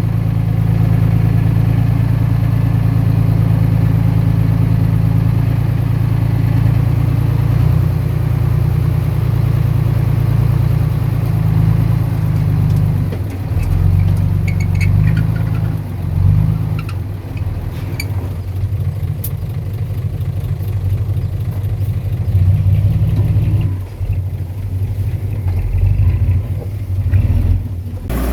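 Heavy diesel engine of earthmoving machinery running, a steady low drone that rises and falls with load in the second half, with a few faint clicks.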